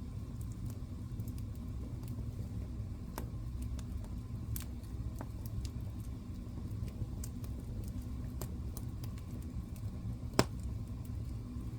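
Wood fire burning in a fireplace: a steady low rumble of the flames with scattered small crackles and pops, and one sharp, loud pop about ten seconds in.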